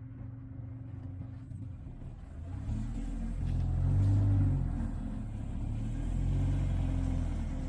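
Car engine running low, revving up about three seconds in and again a couple of seconds later.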